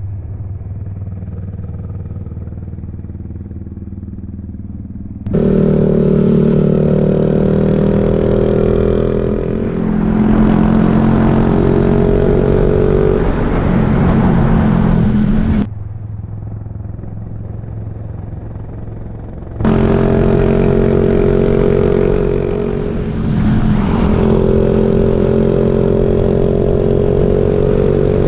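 Suzuki Raider J 115 Fi single-cylinder four-stroke engine running steadily at riding speed, heard from an onboard camera with wind rush. The sound switches abruptly to a muffled, bass-only version twice. The engine note dips and picks up again about 23 seconds in.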